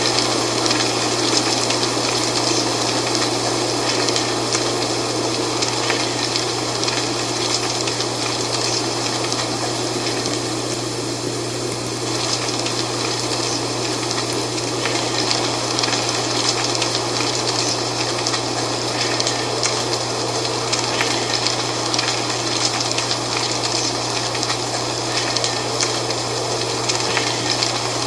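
Dry fall leaves rustling in steady wind, a continuous crackling hiss that eases slightly about eleven seconds in, with a steady low hum underneath.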